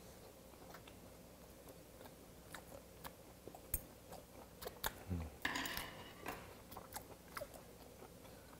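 A person chewing raw beef close to the microphone: soft, wet mouth sounds with scattered small clicks and smacks, a little louder and more continuous about halfway through.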